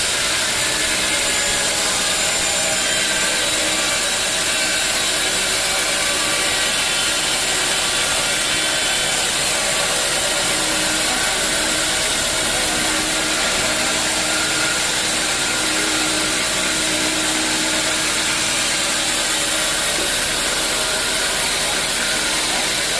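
Sawmill saw running steadily as it cuts through a teak log: a continuous, even, hissing machine noise.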